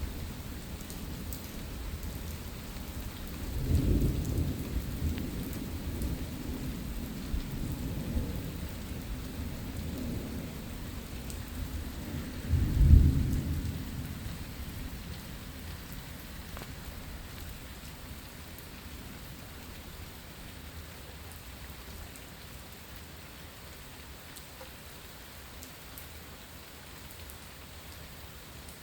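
Thunderstorm: steady rain falling, with rolls of thunder rumbling about 4 seconds in and again more loudly about 13 seconds in, then only rain.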